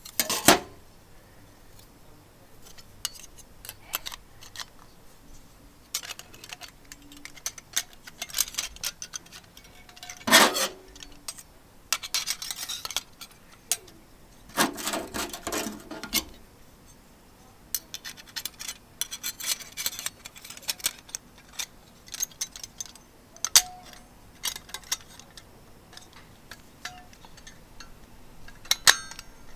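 Cookware and utensils being handled: scattered clinks and taps, with a few longer scraping, rustling stretches.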